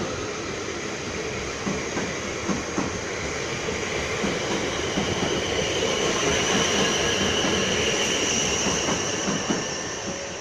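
Class 444 third-rail electric multiple unit pulling out of the station, its traction motors giving a high steady whine over rumbling wheel noise with a few wheel knocks. It fades slightly near the end.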